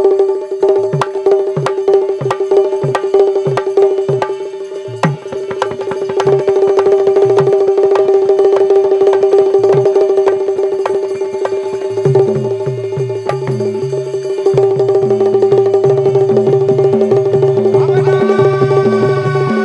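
Instrumental interlude of Bundeli folk music: one steady held drone note over fast hand-drum strokes that grow busier about two-thirds of the way through, with a melody line entering near the end.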